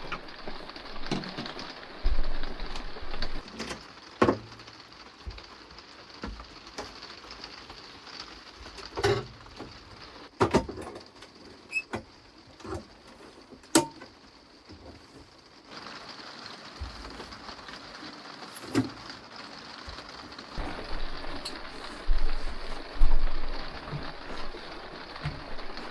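Heavy rain falling steadily on the caravan, heard from inside, with scattered knocks and clinks of things being handled and set down.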